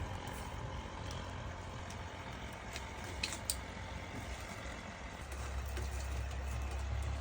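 Open fire burning with a steady low rumble, stronger in the second half, and a few sharp crackles about three seconds in, as a chicken is singed over the flames.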